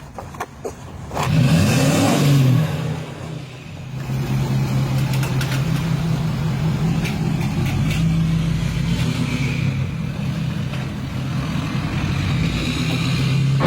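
A few clicks, then a car engine starts about a second in with a short rev that rises and falls. It then settles into a steady idle.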